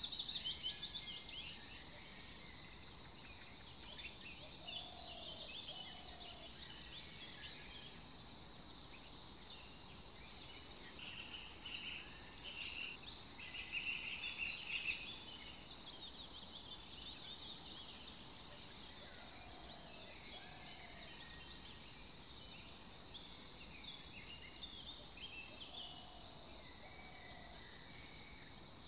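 Birds chirping and twittering in a steady chorus of many short high calls, with a lower two-note call repeated three times, over a thin steady high tone.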